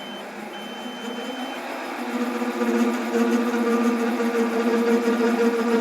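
Electronic beeps at first, then a metal lathe running faster while a between-centres boring bar cuts a cylinder sleeve. A steady humming tone comes up about two seconds in and holds. The boring bar is vibrating in the cut, a sign of chatter.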